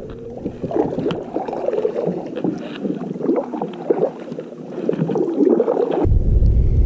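Water gurgling and sloshing around a kayak on the water. About six seconds in, wind buffeting the microphone sets in suddenly as a low rumble.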